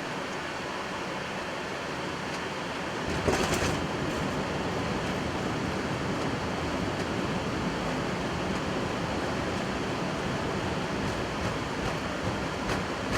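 Cockpit noise of a Boeing 777-300ER on its landing rollout: a steady hiss, then a sharp jolt about three seconds in, after which a heavier rumble of the aircraft rolling on the runway takes over.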